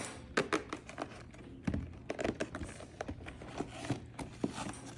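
Packaging and small toiletry items being handled: irregular crinkling of plastic and cardboard with scattered light taps and clicks.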